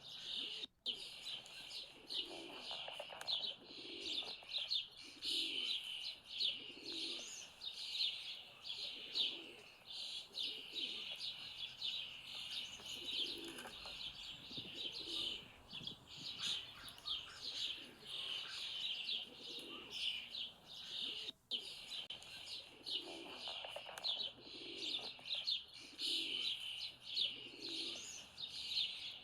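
Morning birdsong: many small birds chirping constantly and fast, high-pitched, over a dove cooing in repeated low phrases. The sound drops out briefly twice.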